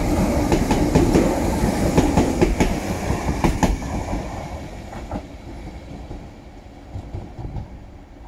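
Class 317 electric multiple unit passing close and running away, its wheels clicking over the rail joints and crossover points in an irregular clatter. The clicks stop about four seconds in, and the rumble fades as the train draws away.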